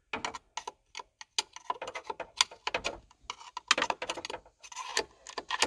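Screwdriver tip clicking and scraping irregularly against metal and plastic in the back of a Chevy Silverado steering wheel, hunting for the hole to the little metal bar that releases the pins.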